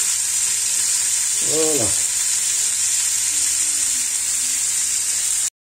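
Tuna steaks sizzling steadily in hot fat in a frying pan. The sizzle cuts off suddenly near the end.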